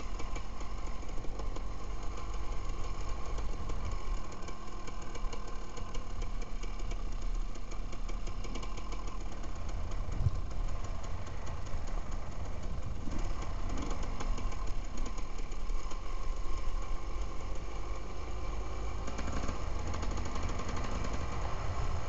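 Enduro motorcycle engine running at a fairly steady, low road speed on a gravel track, heard from on board the bike, with slight changes in throttle along the way.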